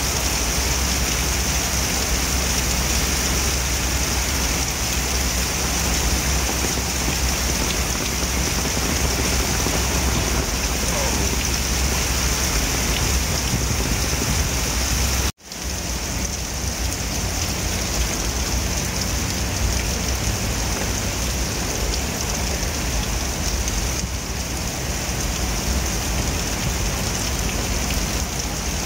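Heavy rain pouring steadily onto a wet road and pavement, a dense, even hiss. It drops out for a split second about halfway through, then carries on.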